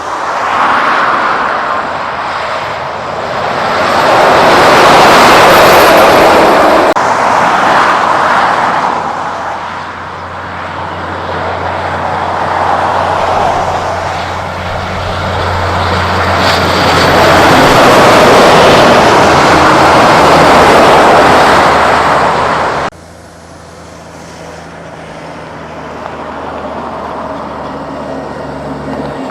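Heavy Kenworth trucks driving past on the road: tyre and engine noise swells loud and fades away, twice, with a steady low engine drone between the passes. The noise drops off suddenly near the end, then builds again as another vehicle approaches.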